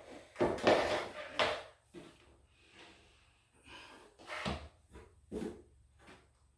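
Irregular wooden knocks and scrapes from a laminated-wood closet organizer unit being shifted and its threaded levelling feet adjusted, a cluster in the first second and a half and a few more later on.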